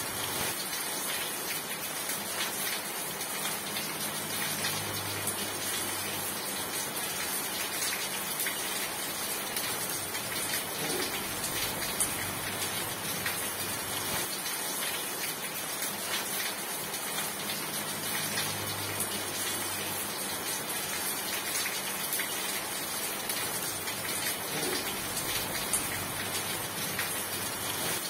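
Steady heavy rain falling, a dense, even hiss without letup. A faint low hum comes and goes twice beneath it.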